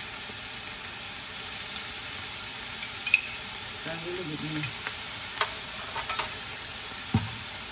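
Purple-rice shrimp fried rice sizzling steadily in a hot frying pan as light soy sauce is spooned in, with a few light clinks of a metal spoon and measuring cup.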